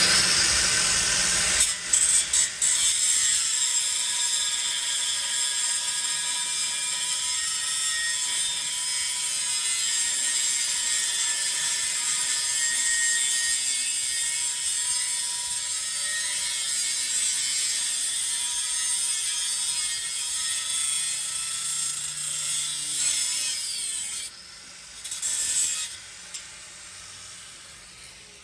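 Power tool cutting through steel exhaust pipe under a truck, running steadily with a high whine. It breaks off briefly about two seconds in, then stops near the end after one more short burst.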